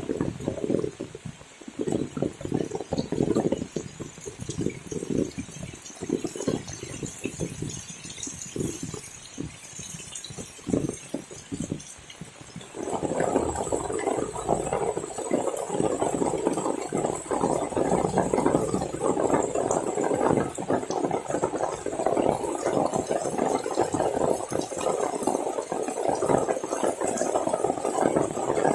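Heavy rain with irregular splashing and knocking; about halfway through, a dense, steady rush of falling water sets in.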